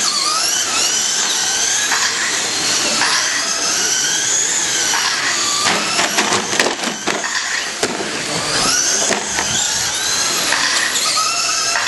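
Several radio-controlled short course trucks racing, their motors whining and rising and falling in pitch as they speed up and slow down. A quick cluster of knocks and clicks comes a little past the middle.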